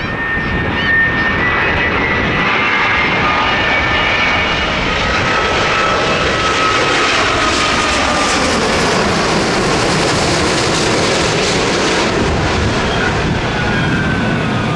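Airliner jet engines running loud and close, a dense rushing noise with a thin engine whine that slowly falls in pitch. The noise swells about a second in and then holds steady.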